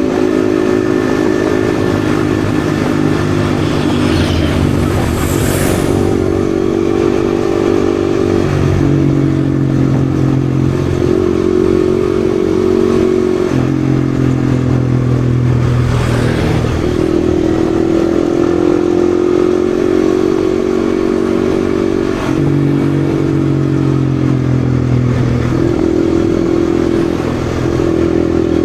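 Yamaha XSR155's single-cylinder engine running under way, its note shifting up and down several times as the rider opens and closes the throttle.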